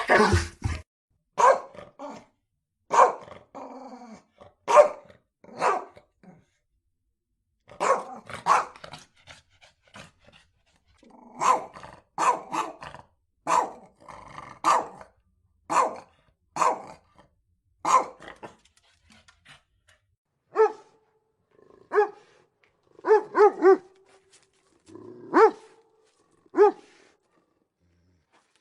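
Dog barking in single sharp barks, irregularly spaced with short pauses. Toward the end the barks are clearer and more tonal, several in quick succession.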